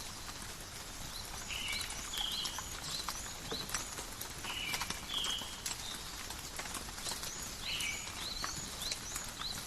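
Steady forest rain with drops pattering and dripping in quick irregular ticks, while a bird repeats short high chirps, some held on one note and some sliding upward, every second or so.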